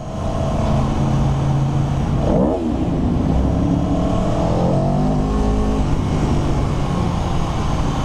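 Motorcycle engine running loudly, revving with its pitch sweeping up and down about two and a half seconds in, then climbing again a couple of seconds later.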